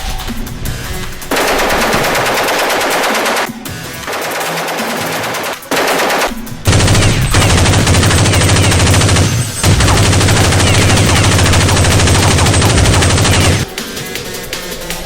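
Automatic gunfire sound effects in long, rapid bursts. A two-second burst comes early on, a quieter one follows, and a long burst of about seven seconds, with one brief break, comes in the second half.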